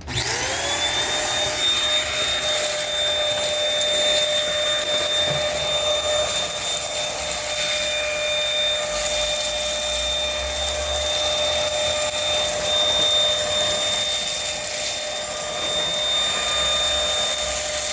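Dirt Devil Simpli-Stick stick vacuum switching on and spinning up within the first half second, then running steadily with a high whine over a rush of air as it vacuums.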